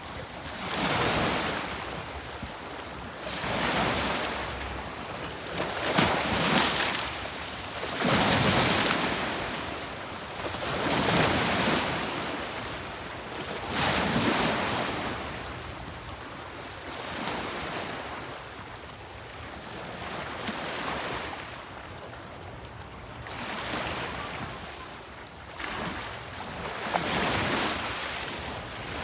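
Sea waves breaking and washing on the shore, a surge about every two to three seconds that swells and draws back, with some wind on the microphone.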